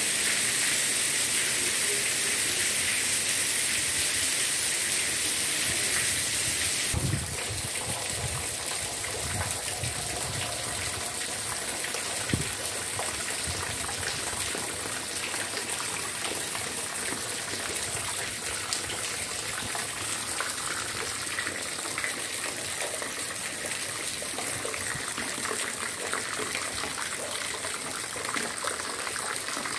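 Heavy rain pouring onto paving, a dense steady hiss. About seven seconds in it changes abruptly to a softer rain with scattered drips and splashes and a few dull low knocks.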